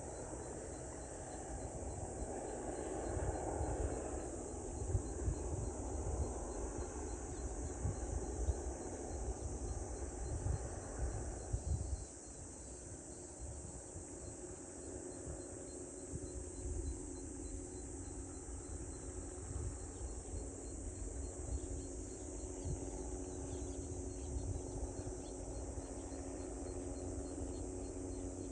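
A steady, unbroken high chorus of insects. Under it is an irregular low rumble of wind on the microphone, gusting hardest in the first twelve seconds and easing after that.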